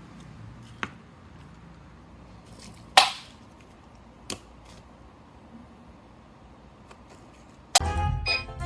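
A few sharp taps or knocks over quiet room tone, the loudest about three seconds in. Music starts near the end.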